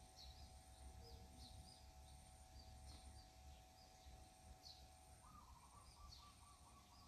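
Faint outdoor ambience: scattered short bird chirps over a low rumble, with a rapid faint trill starting about five seconds in.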